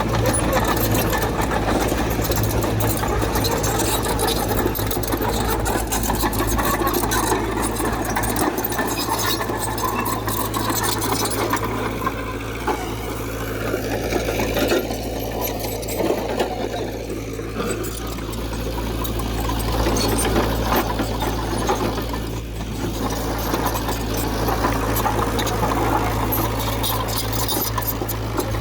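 Diesel engine of heavy earthmoving machinery running steadily, with metallic rattling and clanking over it. The engine eases off somewhat around the middle and picks up again toward the end.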